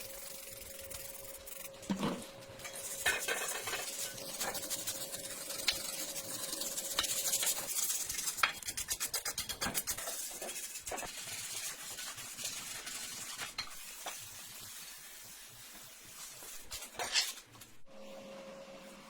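Hand work on metal go-kart parts: scraping and rubbing, with a run of quick back-and-forth strokes around the middle and a few sharp knocks.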